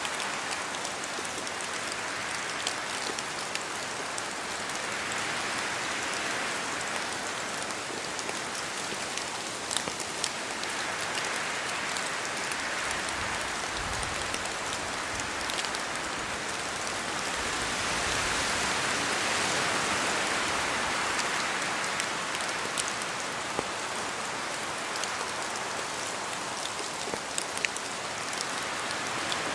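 Steady rain falling in a forest, with scattered louder drops tapping from the trees and the wind swelling and easing in slow waves. A brief low rumble comes about halfway through.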